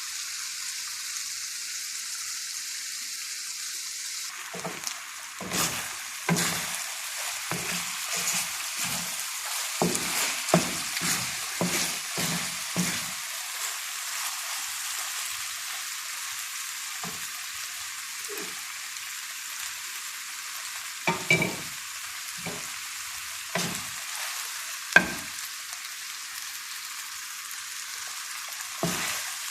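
Chicken cooking in a pan with a steady sizzle, stirred with a cooking utensil that scrapes and knocks against the pan in a run of strokes starting about four seconds in, then in scattered strokes with one sharp knock near the end.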